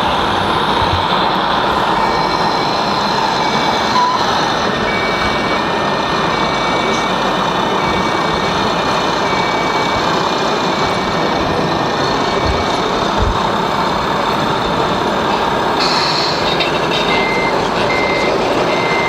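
Reversing beepers from the sound modules of radio-controlled model trucks and construction machines, over a steady noise. One beeper repeats from about two seconds in to about eleven seconds in, and a second, slightly lower beeper starts near the end.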